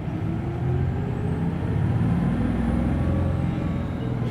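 Hino Blue Ribbon City Hybrid bus's diesel engine heard from inside the bus, pulling away from a stop. The engine note climbs steadily in pitch as the bus accelerates, with a faint high whine rising and falling above it.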